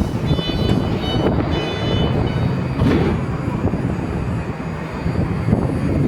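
BART rapid-transit train starting to pull out of the station after its doors close, a steady rumble of the train on the rails with faint high electric tones in the first couple of seconds.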